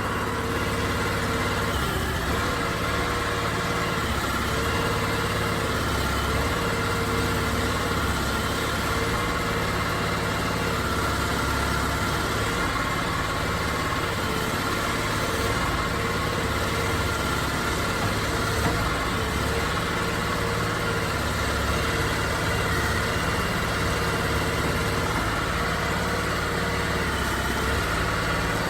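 Crawfish boat's small gasoline engine running steadily, at an even level throughout with a constant hum.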